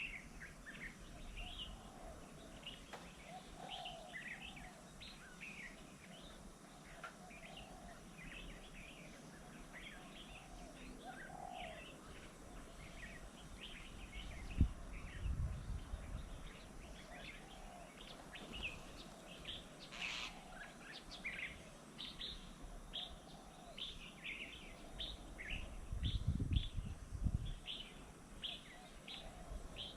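Many short bird chirps and calls, overlapping and continuous. Twice, a low rumble rises under them for a second or so.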